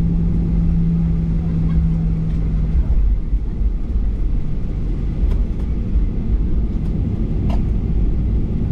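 Steady low rumble of cabin noise aboard a Boeing 737-800, with a steady hum that cuts off about three seconds in and a few faint clicks later on.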